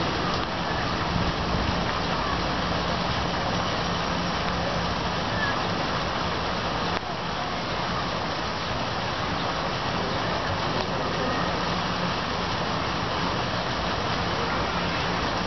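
Steady rain, an even hiss, with a low steady hum underneath.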